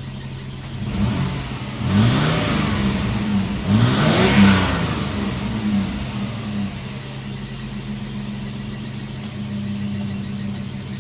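Mitsubishi Pajero engine idling, blipped up in revs twice, about two and four seconds in, each time falling back to a steady idle.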